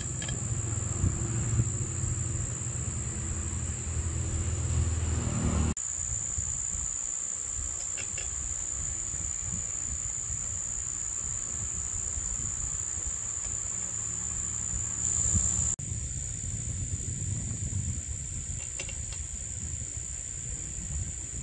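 Crickets trilling steadily, with a low engine-like rumble beneath that is strongest for the first few seconds and changes abruptly about six and sixteen seconds in.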